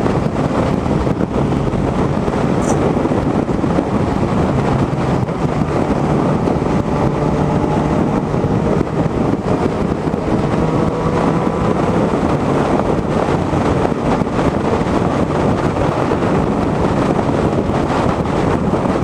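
Wind rushing over the microphone of a Yamaha FZ-09 motorcycle at highway speed, with the engine's steady drone underneath that rises and falls slightly in pitch about halfway through.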